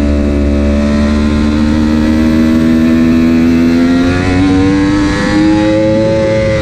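Superbike engine under hard acceleration, its pitch climbing steadily. Near the end the pitch drops suddenly with an upshift.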